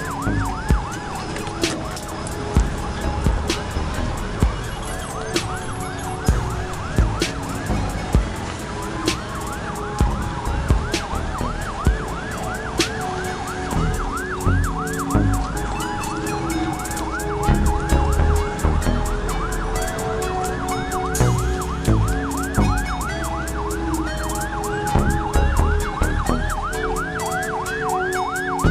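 Several emergency vehicle sirens sounding at once. A fast yelping siren sweeps up and down about twice a second, over a slower wailing siren that rises and falls every few seconds and fades out about a third of the way in. Steady held tones and scattered sharp knocks sound beneath them.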